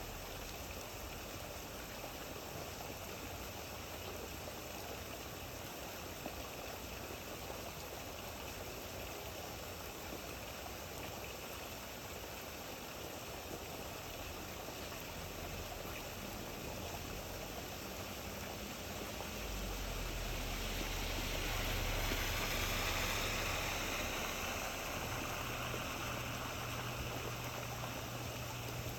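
Steady rain falling. About two-thirds of the way through, a low engine hum comes in and the hiss swells to its loudest a few seconds later; the hum stays on to the end.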